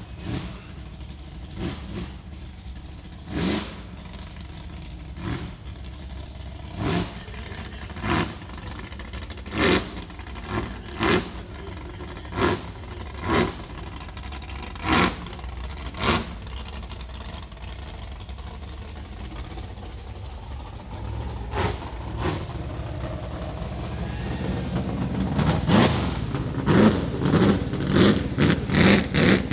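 Rock bouncer buggy engine revved in short bursts, one every second or so, rising to a faster, louder run of revs over the last few seconds.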